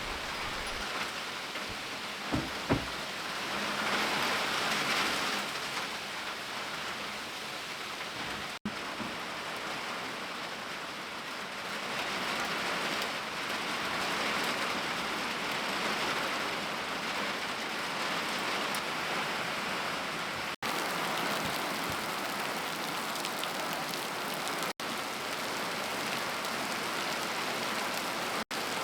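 Rain falling steadily in a storm, an even hiss of water on surfaces, with two sharp knocks about two and a half seconds in and a few split-second gaps where the sound cuts out.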